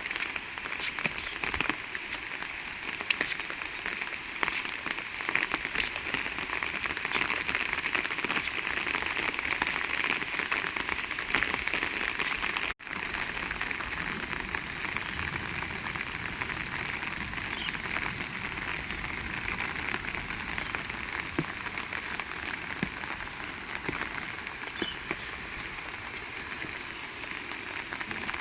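Heavy rain falling steadily, a dense hiss dotted with many close drop hits. The sound cuts out for a split second near the middle.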